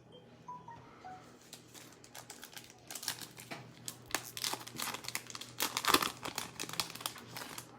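A foil trading-card pack wrapper being crinkled and torn open. It starts as a dense run of crackles about three seconds in and is loudest around six seconds.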